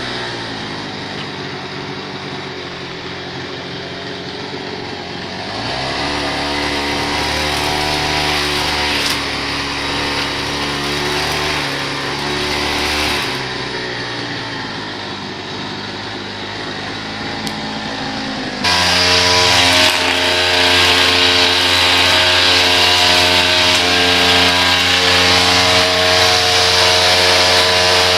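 Small petrol engine of lawn-care equipment running, changing speed a few times and then revving up sharply to a louder, higher-pitched run about two-thirds of the way through.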